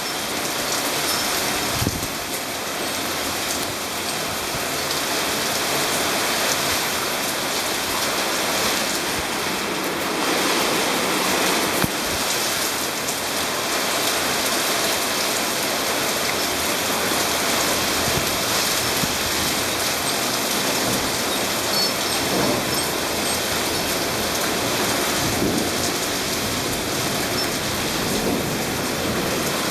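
Torrential rain pouring down in a steady, dense hiss, from a squall line passing over.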